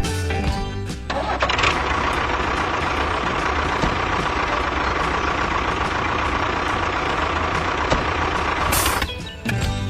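A motor running steadily with a constant high whine, starting about a second in and stopping sharply near the end.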